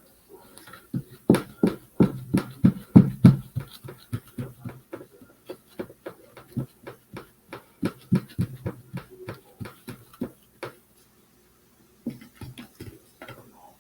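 Paintbrush dabbing on the wooden birdhouse in quick, uneven taps, several a second, loudest in the first few seconds, stopping briefly and starting again near the end.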